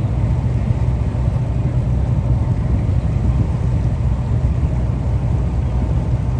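A boat's engine running steadily under way, a constant low drone.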